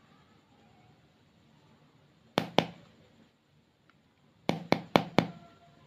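Sharp clicks from handling slime and soft clay: two about two and a half seconds in, then four in quick succession near the end, over quiet room tone.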